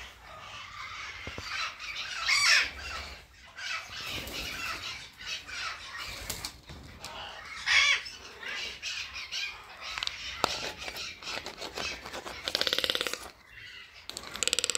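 Captive birds calling: scattered harsh squawks and calls, and near the end a rapid buzzy rattling call, heard twice.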